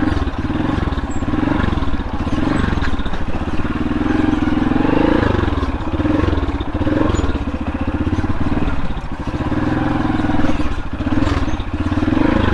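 Motorcycle engine running as it is ridden, the revs rising and falling again and again.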